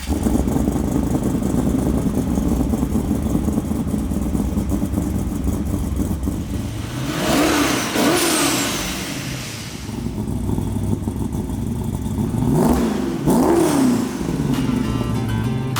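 1974 Holden HQ Statesman's twin-turbo V8 idling with a lumpy, loud note. It is blipped up and down in two quick bursts, about halfway through and again near the end.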